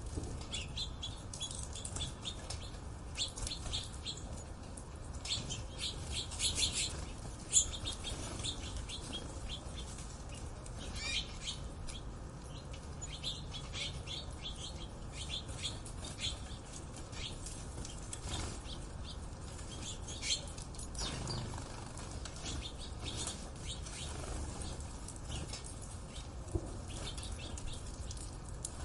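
Birds chirping: many short, high chirps and clicks in quick succession, thickest in the first half, over a low steady rumble.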